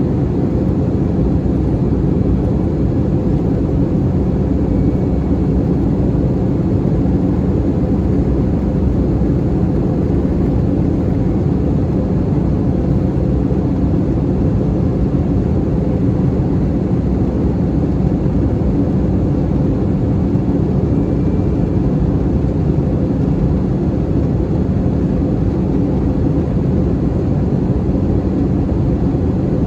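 Airbus A321-211 cabin noise in flight: the steady drone of its CFM56 turbofan engines and rushing airflow, with a low hum that holds one pitch.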